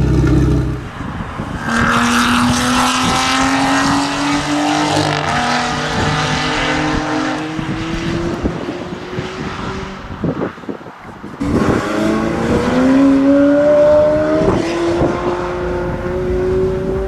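Supercar engines accelerating hard on a race track, heard as two long rising engine notes: one from about two seconds in, and another after a brief lull near the middle.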